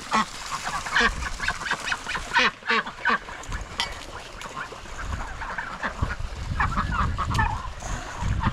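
Domestic waterfowl calling: many short calls in quick succession. A low rumble runs under them from about a second in and again near the end.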